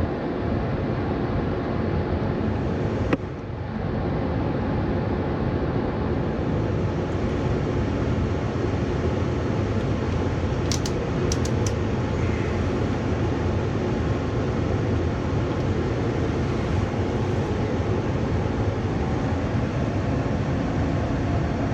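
Gas furnace running after being switched on: a steady blower rush and rumble, with a single sharp click about three seconds in.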